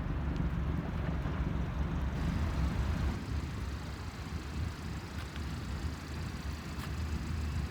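Hyundai i30 N's 2.0-litre turbocharged four-cylinder engine running steadily at low revs, a low rumble.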